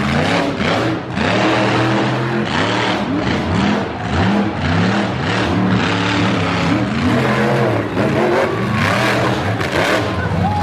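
Monster truck engine revving hard, its pitch climbing and dropping again and again about once a second, with scattered sharp bangs.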